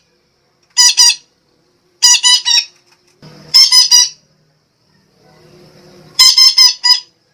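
Sumatran betet (red-breasted parakeet) giving loud, harsh squawking calls in four bursts of three to five quick notes each, about a second and a half apart. It is the kind of call played as a lure to draw in other betet.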